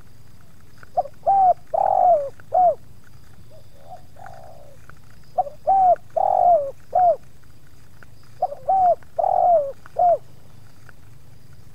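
Spotted dove cooing: three phrases of about four notes each, a few seconds apart, with a softer single coo between the first two.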